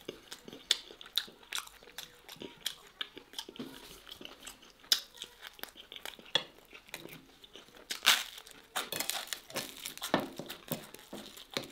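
Chewing and mouth sounds of someone eating pieces of steak in sauce, with irregular clicks and crackles throughout, a few louder ones about five and eight seconds in, and a metal fork scraping on a plate.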